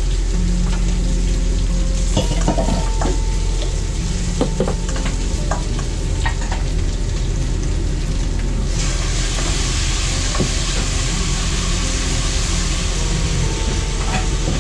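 Food frying and sizzling, with utensils clicking, over a steady low rumble; a louder, even sizzle sets in suddenly about nine seconds in.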